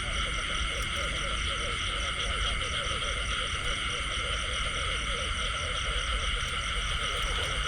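Chorus of frogs and insects: a steady, pulsing high trilling with many short croaking calls underneath, over a low steady rumble.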